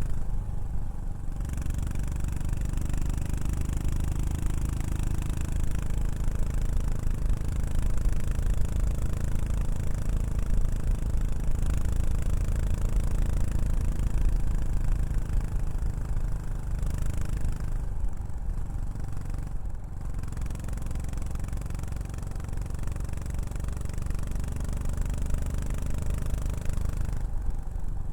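Yamaha SR400's single-cylinder four-stroke engine running through a Prunus aftermarket muffler as the bike is ridden, the exhaust note rising and falling with the throttle, with two brief dips about two-thirds of the way in.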